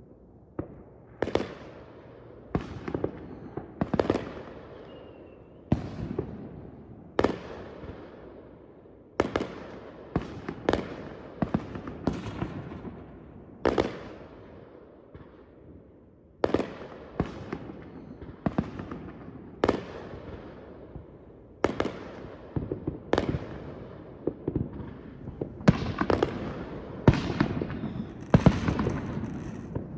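Aerial fireworks bursting, a sharp bang every one to two seconds, each followed by a trailing rumble and crackle that echoes away; the bangs come thicker near the end.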